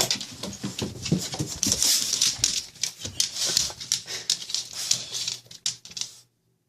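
A dog moving about, with a dense run of quick clicks and rustling noises, cutting off suddenly about six seconds in.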